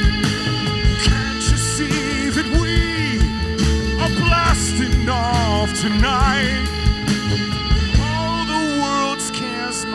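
Rock band playing live without vocals: drums, upright bass and guitars under a wavering lead melody with wide vibrato. The drums drop out about eight seconds in, leaving held guitar chords ringing.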